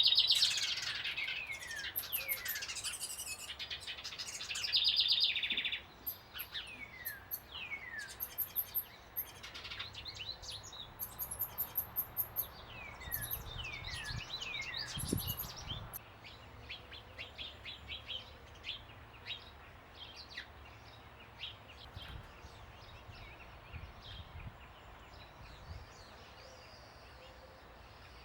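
Several small birds chirping and calling, with many short falling notes and quick high chips. The calls are busy for the first half and thin out to scattered chirps after about halfway.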